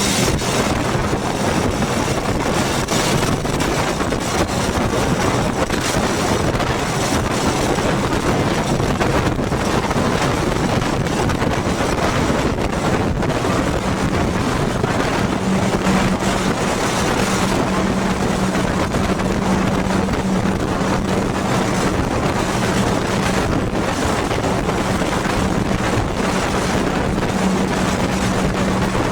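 Yamaha motorcycle engine running steadily while riding, with a constant hum, under heavy wind noise on the microphone.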